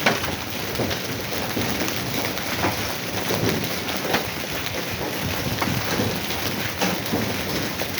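Hailstorm: a dense, steady patter of hail and rain striking surfaces, with many sharp separate hits of single hailstones all through.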